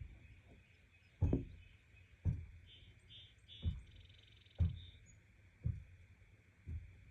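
Outdoor rural ambience with a steady high insect-like drone. An animal calls in the middle with a few short pulsed croaks that run into a brief trill. Dull low thumps come about once a second and are the loudest sounds.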